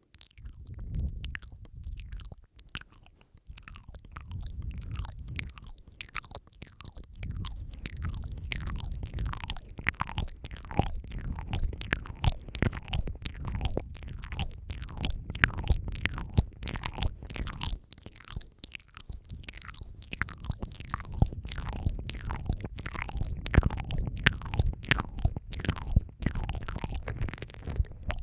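Close-miked ASMR mouth sounds, several tracks layered: a dense, irregular run of wet clicks, smacks and licking sounds with a low rumble underneath.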